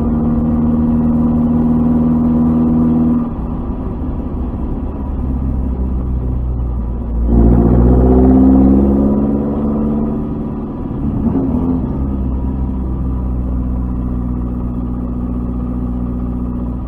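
Lancia Fulvia's narrow-angle V4 engine running at low revs as the car rolls slowly in traffic. About seven seconds in the revs rise briefly under acceleration, then settle back to a steady low-rev run.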